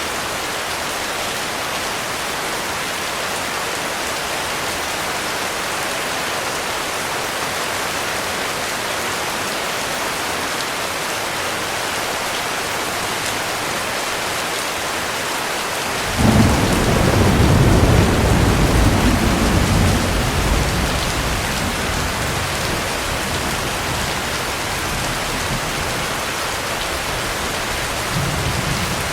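Steady heavy rain. About halfway through, a thunderclap breaks in suddenly and rolls on as a deep rumble, dying away over several seconds. A fainter rumble of thunder comes near the end.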